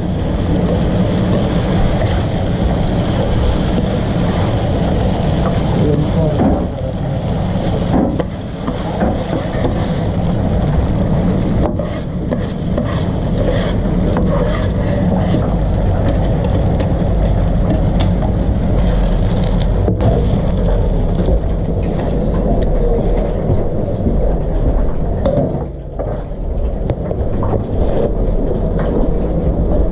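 A vehicle on the move: a steady low road and engine rumble with occasional rattles and clicks.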